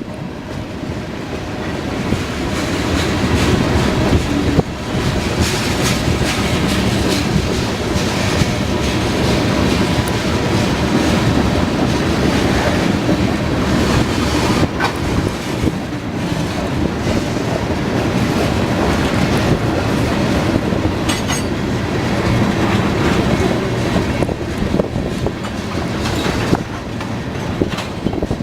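Train rolling past close by, its railcar wheels clacking steadily over the rail joints.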